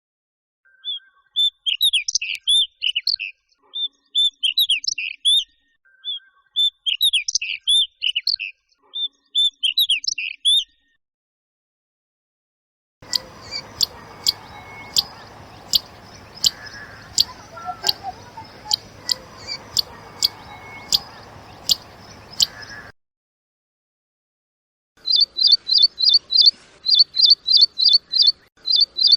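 Recorded bird calls from three different birds, played one after another with short silences between: first repeated warbling song phrases, then a run of sharp, evenly spaced tick notes over background noise, then a fast series of high repeated notes near the end.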